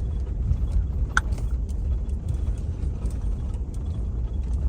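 Pickup truck driving, heard from inside the cab: a steady low engine and road rumble, with one short click about a second in.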